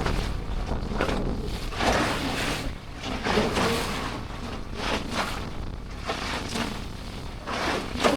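Gusting wind buffeting the microphone, with choppy sea water sloshing around a small boat.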